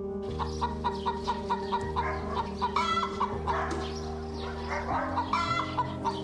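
Chickens clucking in quick short calls, a few a second, with a couple of longer, louder calls about three seconds in and again near the end, over background music of held notes.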